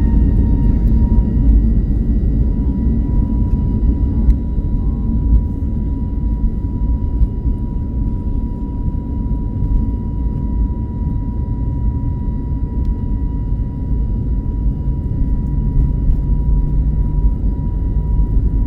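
Airbus A321 jet engines running steadily, heard from inside the passenger cabin: a heavy rumble with a steady high whine over it.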